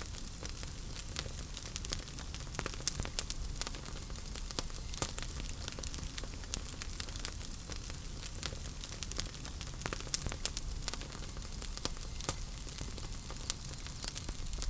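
Wood fire burning in a fireplace, with frequent irregular pops and crackles over a steady hiss and a low rumble of the flames.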